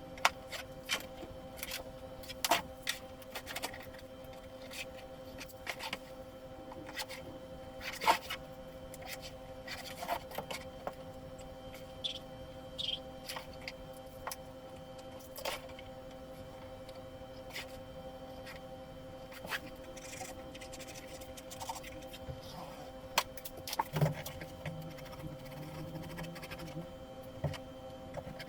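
Scratchy strokes of drawing on a cardboard box, with scattered light knocks and clicks from handling the cardboard, over a steady background hum.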